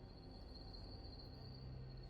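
Quiet background: a faint steady low hum with a thin, steady high-pitched whine, and nothing else happening.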